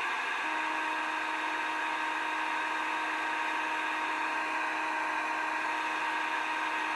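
A strange steady buzzing hiss received on a radio, with a few faint held tones running under it from about half a second in.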